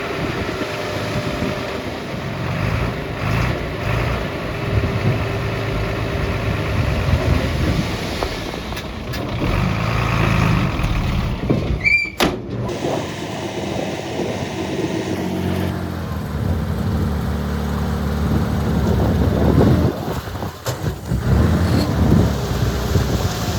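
Heavy diesel earth-moving machinery running steadily: dump truck and bulldozer engines working. About halfway through there is a short sharp sound with a brief rising squeal.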